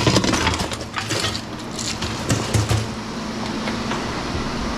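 Scrap aluminum pieces clanking and knocking against each other and against metal as they are handled, irregular strikes for the first couple of seconds, then a steadier rattle with a low hum under it.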